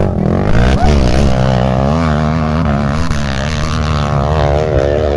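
Off-road motorcycle engine running, its pitch wavering up and down as the throttle changes, with a quick rev-up about a second in.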